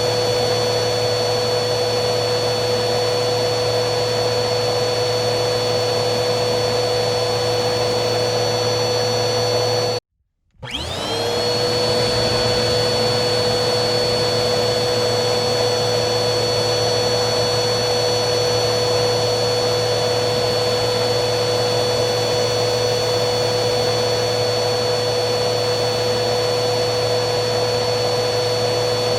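Vacuum cleaner motor running steadily with a high whine. About ten seconds in it cuts out for half a second, then starts again, its whine rising in pitch before settling back to a steady run.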